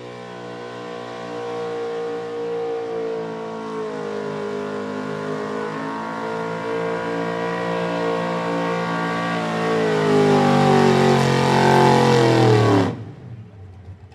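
Pro Stock four-wheel-drive pulling truck's engine running hard under the load of the sled, growing steadily louder. Near the end its pitch sags as the engine bogs down, and about 13 s in it cuts off suddenly as the pull ends.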